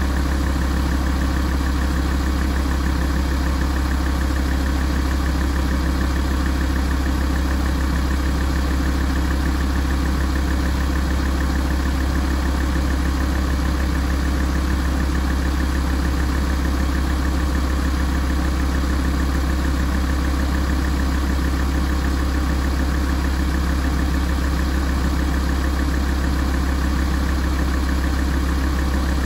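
Alfa Romeo 166 facelift's 2.4 JTDm five-cylinder common-rail diesel idling steadily while warming up, with an even low hum and no change in speed.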